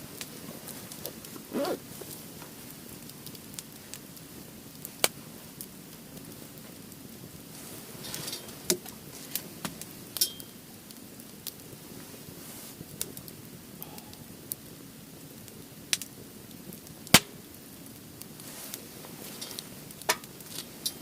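Firewood burning in a Uniflame Fire Grill fire pit: a steady crackle with sharp pops every few seconds, the loudest about three-quarters of the way through.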